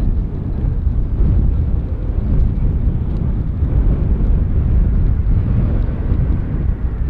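Low, steady rumble of a jet airliner's engines.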